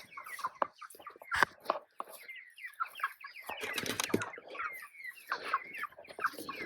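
A flock of chickens clucking and peeping, with many short overlapping calls, and some rustling and knocks mixed in.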